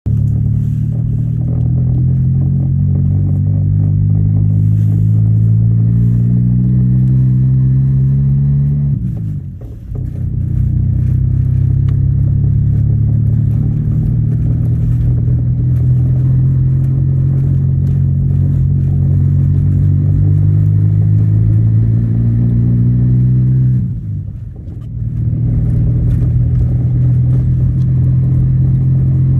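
Car engine under load while driving, its note rising slowly as the car gathers speed, broken twice by brief dips about nine seconds and about twenty-four seconds in: gear changes.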